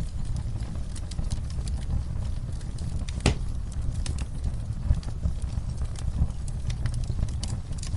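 Wood fire crackling: irregular sharp pops and snaps over a low rumble of burning, with one louder pop about three seconds in.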